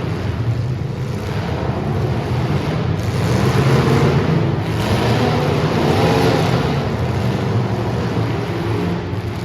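Super stock race car engines running on the track, a steady loud noise with some rising and falling revs near the middle.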